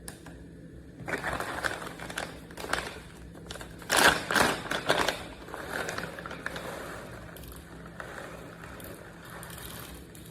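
Hard objects being handled: a run of irregular knocks and clatters starting about a second in, loudest about four seconds in, then quieter scraping and rustling.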